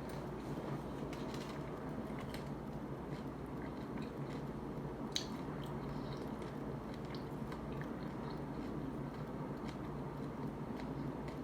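Close-miked chewing of a crunchy tostada topped with shrimp ceviche: scattered small crunches and mouth clicks, with one sharper crunch about five seconds in, over a steady low hum.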